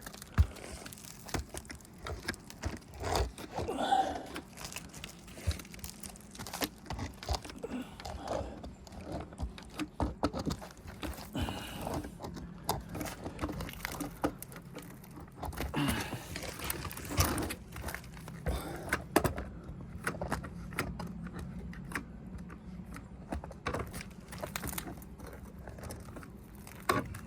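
Irregular taps, clicks and crackling from hands working brittle, torn asphalt roof shingles while caulking them down. A low steady hum comes in during the second half.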